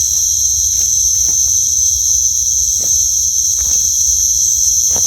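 A loud, steady chorus of night insects, crickets chirring without a break, with a few faint rustles and clicks underneath.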